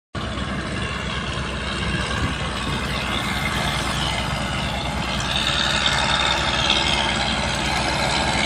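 Engine running steadily at idle, starting just after a brief cut of silence.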